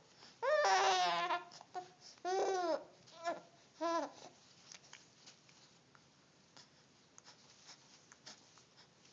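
Infant babbling: four high-pitched calls in the first four seconds, some arching up and down in pitch. After that only faint scattered clicks remain.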